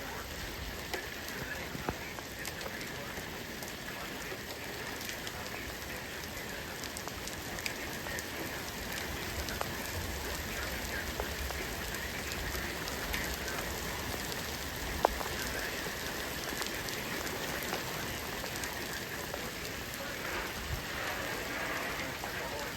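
Steady thunderstorm rain falling, with scattered drops ticking sharply on a nearby surface; one louder tick about fifteen seconds in.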